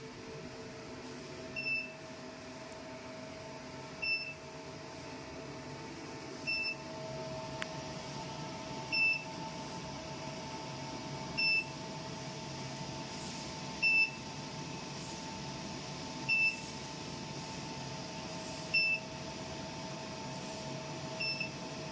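RF beauty machine running with a steady electronic hum, while it gives a short, high beep about every two and a half seconds, nine times, as its working handle runs a treatment.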